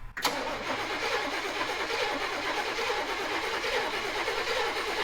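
Old four-door truck's engine being cranked over by the starter with a steady rhythmic churn for about five seconds, without catching; it later needs real fuel to run.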